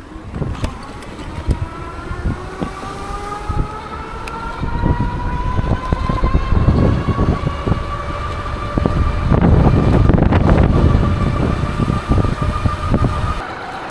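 XP 3.0 e-bike's geared rear hub motor whining, rising slowly in pitch as the bike gathers speed, until it cuts out just before the end. Wind buffets the microphone throughout, heaviest about ten seconds in.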